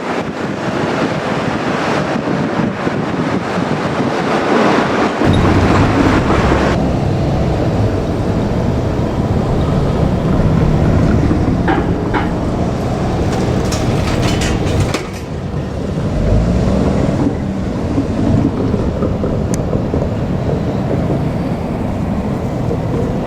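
JR Kyushu 787 series electric train running past, wheels clattering on the rails. The sound changes abruptly about five seconds in and again about fifteen seconds in, with a few sharp clicks in between.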